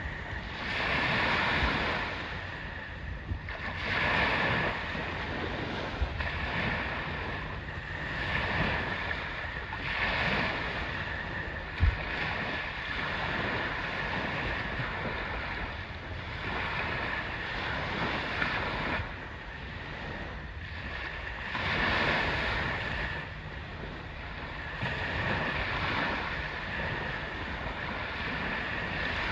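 Sea waves washing in with wind buffeting the microphone, the noise swelling and easing every few seconds.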